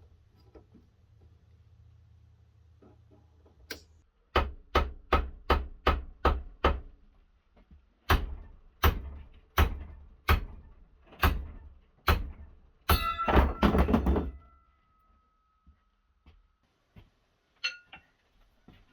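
Hammer blows on metal: after a few quiet seconds, a quick run of about seven strikes, then slower single strikes, then a rapid flurry that leaves a metallic ring fading out.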